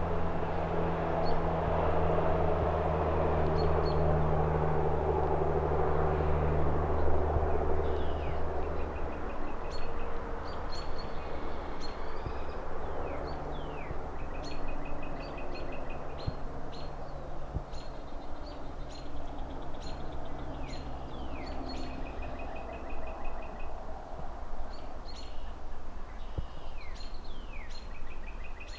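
Distant city traffic hum with birds chirping. A low engine drone with a steady pitch fades out over the first nine seconds or so, and then many short chirps, quick down-slurred calls and rapid trills repeat over the traffic hum.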